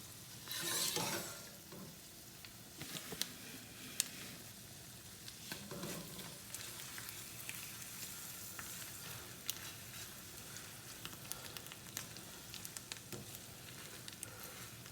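Creamed spinach with shrimp simmering in a pan over a low flame: faint steady sizzling with scattered small pops, and a brief louder rush of noise about a second in.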